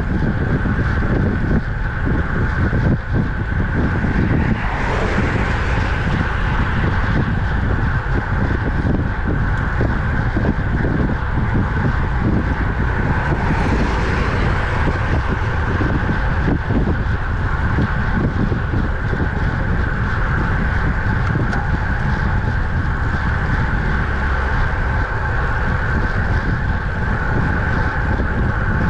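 Wind rushing over the microphone of a camera riding along on a moving road bike, a steady low rumble of road and wind noise. Twice, about five and fourteen seconds in, a hiss swells up and fades.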